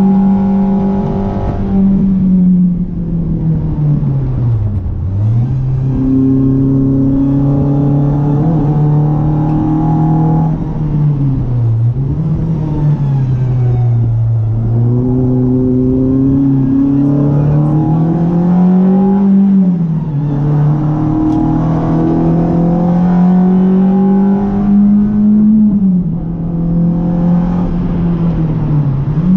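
Renault Clio RS 182's 2.0-litre four-cylinder engine held at high revs on track. The revs drop sharply several times and climb again, as the car brakes and shifts for corners and then accelerates out of them.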